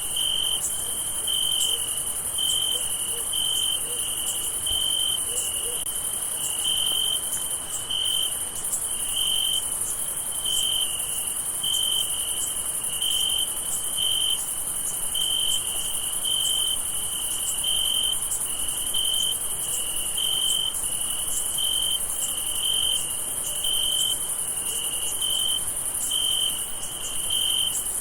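Crickets chirping: a steady high-pitched trill, with a lower cricket chirping in an even pulse a little faster than once a second.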